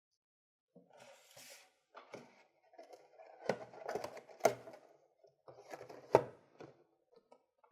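Cardboard packaging being handled: rustling, then a string of irregular taps and knocks as the parts are fitted back into the box, the sharpest two about four and a half and six seconds in.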